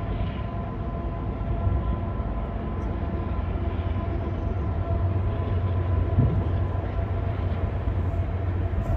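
Norfolk Southern freight train rumbling steadily as it runs along the line, with a faint steady whine above the deep rumble.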